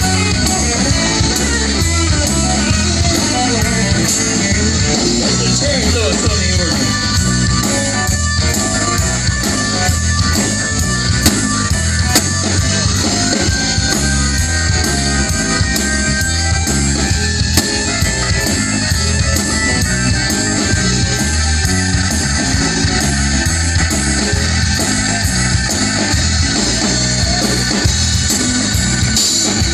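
A band playing rock music, guitar over a drum kit, with a steady beat.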